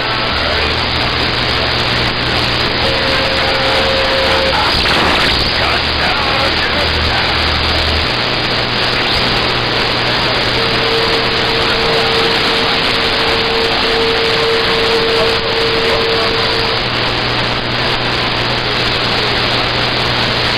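CB radio receiver hissing with open-channel static between transmissions, steady and loud, with a faint steady whistle of a carrier tone briefly about three seconds in and again for several seconds past the middle.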